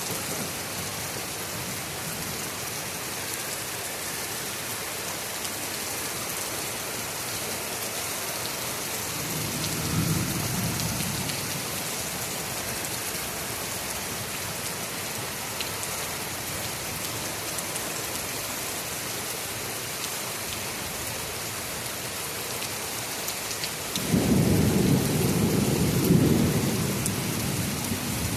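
Heavy rain falling steadily, with thunder: a low rumble swells and fades about ten seconds in, and a louder, sudden rolling rumble breaks out near the end.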